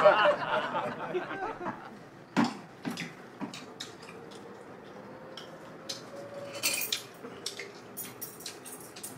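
Scattered clicks and clinks of cutlery and dishes while people eat, irregular and moderately soft, with a small cluster of clinks a little past the middle.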